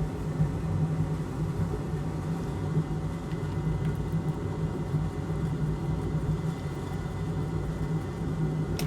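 Steady low whirring hum from bench equipment, with a light click near the end.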